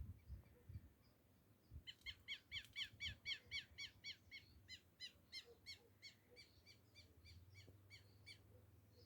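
A bird calling faintly, a rapid series of short, repeated high notes that starts about two seconds in, about four a second, then slows and fades away.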